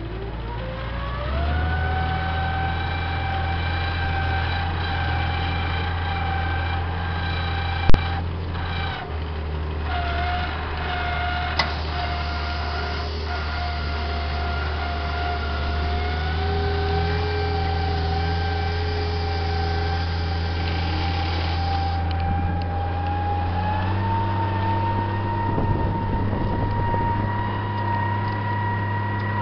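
MB Trac 1500 tractor's diesel engine pulling under load, heard from the cab, with a steady whine that rises over the first second or so and then holds. A single sharp clunk about eight seconds in, and the pitch steps up a little near the end.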